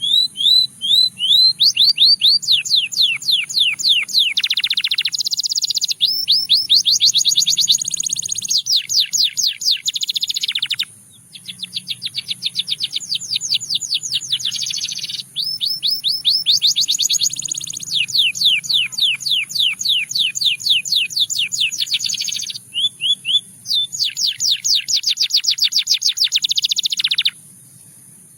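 Domestic canary singing a long song of rapid trills, each a fast run of repeated high notes, one tour after another. The song breaks briefly about eleven seconds in and stops near the end.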